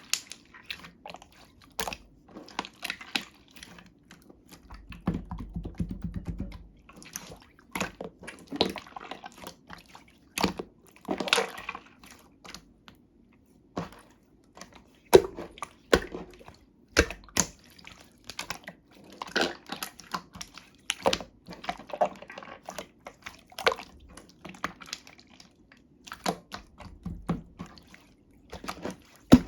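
Hands squishing, poking and stretching slime, making irregular wet clicks, pops and squelches.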